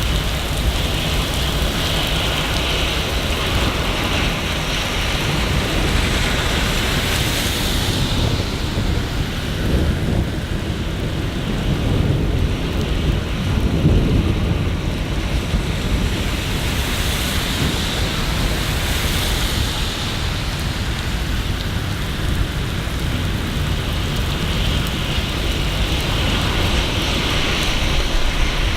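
Steady rain falling, with a low rumble of distant thunder that swells and fades in the middle.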